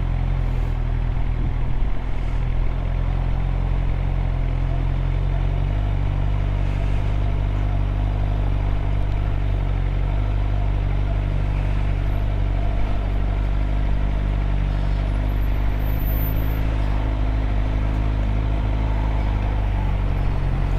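2013 Suzuki GSX-R600's inline-four engine running steadily at low revs in slow, stop-and-go traffic. Its note shifts slightly lower about six seconds in.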